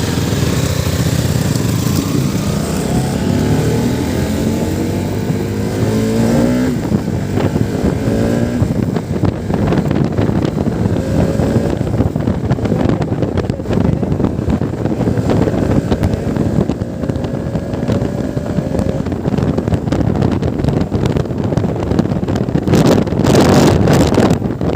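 Motorcycle engine pulling up through the gears while riding, its pitch rising and dropping back at each shift, with heavy wind noise on the microphone. The wind rushes louder for a moment near the end.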